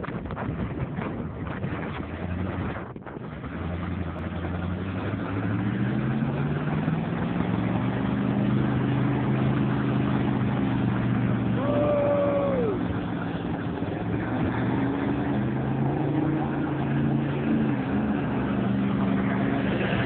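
A truck engine revving up for a burnout: the revs climb over the first several seconds, then are held high and waver under the noise of the spinning tires. A brief falling squeal comes about halfway through.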